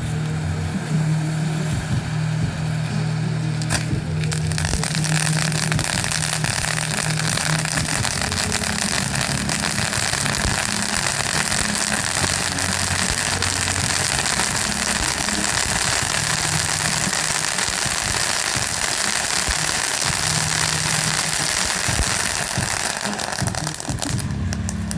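Fireworks going off in a dense, continuous barrage: a steady crackling hiss that starts about four seconds in and stops near the end.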